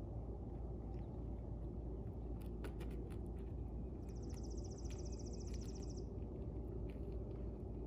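A songbird gives a rapid, even, high trill for about two seconds midway, over a steady low outdoor rumble. A few sharp knocks from roofing work on the house come a little before it.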